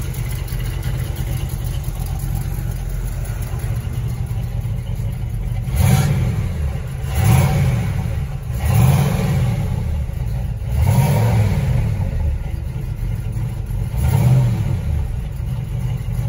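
Oldsmobile 403 V8, bored 30 over with a mild Comp Cams cam, idling steadily, then blipped five times, each a short rise and fall in engine speed, from about six seconds in.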